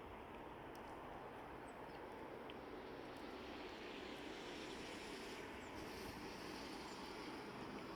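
Steady outdoor background noise, with a few faint, very short high chirps scattered through it.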